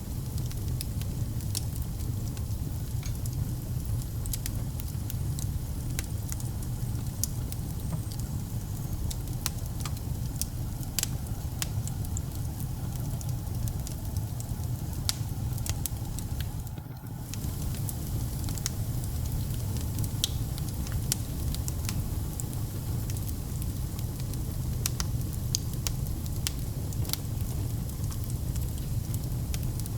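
Fire burning in a fireplace: a steady low rumble with frequent sharp crackles and pops scattered irregularly throughout, and a brief drop-out a little past the middle.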